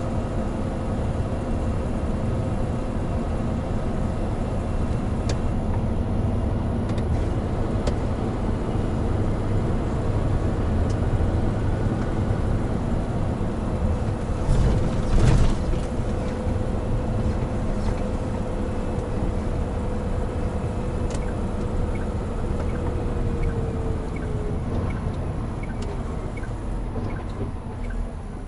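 Hino Profia heavy truck's diesel engine and road noise while driving, a steady rumble with one louder knock about halfway through. Near the end the engine note drops away and a regular ticking starts.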